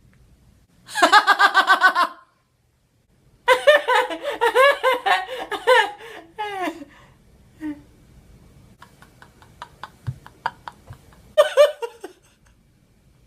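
A person laughing in several bursts, the first a quick run of even "ha-ha" pulses, a longer bout in the middle and a short one near the end.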